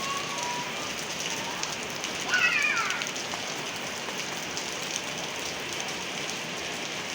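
Steady rain falling, with a brief high-pitched cry about two and a half seconds in.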